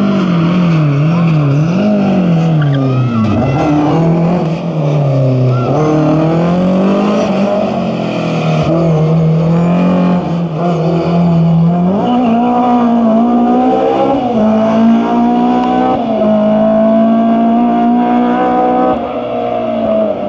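Rally car engine worked hard, its pitch swinging up and down rapidly with throttle blips and gear changes, then held high and fairly steady under sustained acceleration in the second half.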